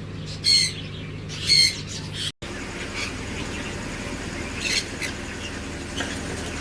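Pineapple conures squawking: two loud, harsh, high calls about half a second and a second and a half in, followed by fainter scattered short calls.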